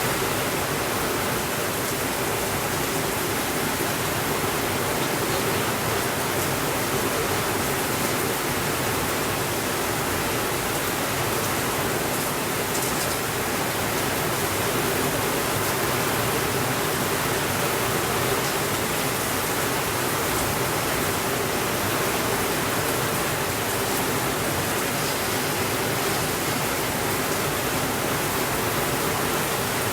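Steady rainfall, an even hiss that holds the same level throughout.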